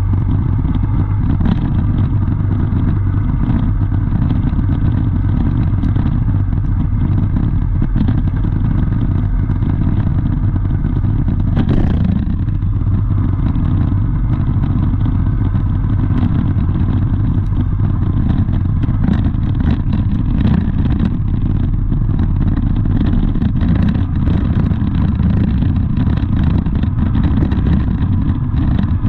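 A vehicle in motion: a loud, steady low rumble of engine and road noise, with scattered faint knocks.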